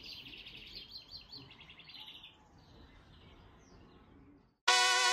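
Wild songbird singing in forest, a fast run of many short high notes that trails off about two seconds in, with fainter calls after.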